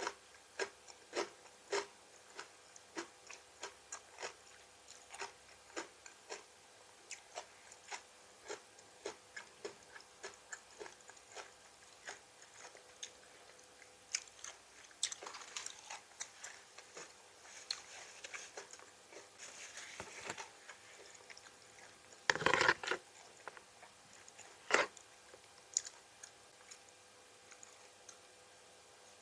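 A person chewing crisp raw vegetables close to the microphone: short crunching bites at a fairly regular pace of about two a second, with one louder, longer crunch a little after twenty seconds in.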